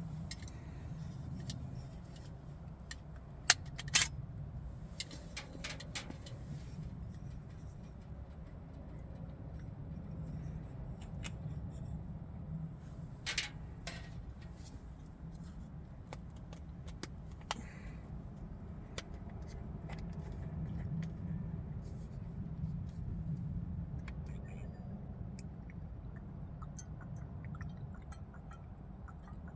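Scattered clicks, taps and scrapes of small objects being handled, with two sharp knocks about three and a half and four seconds in and another cluster about thirteen seconds in, over a low steady rumble.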